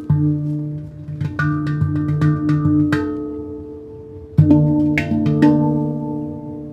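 Handpan played with the fingers: struck notes ring on and overlap in a slow melody. The ringing fades about halfway through, then a strong low note with several quicker higher notes comes in about two-thirds of the way through.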